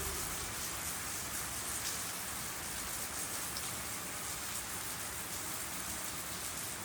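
Steady rain falling on surfaces: an even hiss with faint scattered drop ticks.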